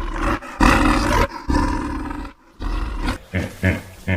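A large animal roaring: a few long, rough roars, then short grunting pulses near the end.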